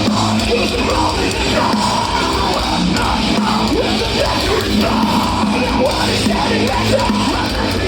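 Live electronicore band playing loud through a festival PA: heavy distorted metal with a steady beat and yelled vocals.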